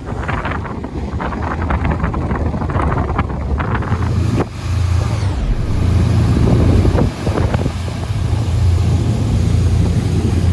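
Wind buffeting the microphone over the low, steady drone of a tour boat's engine; the drone grows stronger about halfway through.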